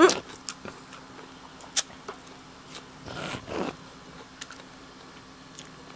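Close-miked chewing and crunching of crisp lettuce salad: a loud crunchy bite at the start, a sharp one about two seconds in, and softer chewing between.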